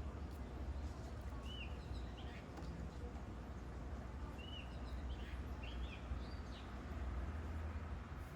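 Small birds chirping in the background, several short arched chirps scattered through, over a low steady rumble.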